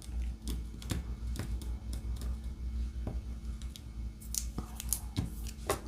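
Light, irregular clicks and taps, about two a second, of a diamond painting drill pen picking up resin drills and pressing them onto the canvas.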